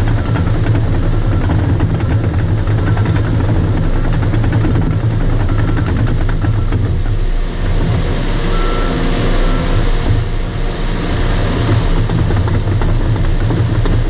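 Bulldozer's diesel engine running steadily under load, with the tracks clattering. Its reverse alarm beeps about once a second, stops about halfway through, then beeps twice more.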